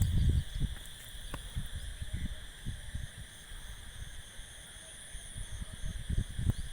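Steady high-pitched buzzing of insects in the background, with irregular low thumps and rumble on the microphone, the strongest right at the start.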